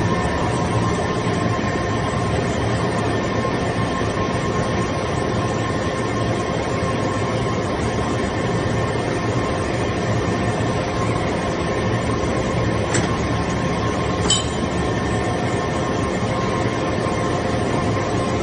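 Automatic metal-chips baler running: steady machine noise with a constant hum and whine, and two short clicks about two-thirds of the way through.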